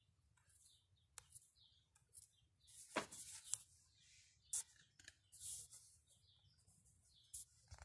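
Near silence: faint small-bird chirps with a few soft clicks and rustles, the sharpest click about three seconds in.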